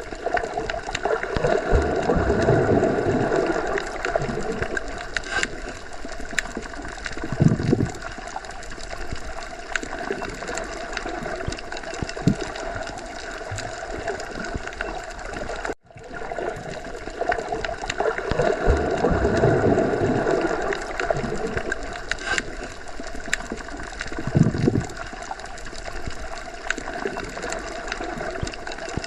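Underwater sea ambience: a steady watery wash with gurgling and slow swelling surges. It repeats as a loop of about 17 seconds, with a brief cut-out about halfway through where the loop restarts.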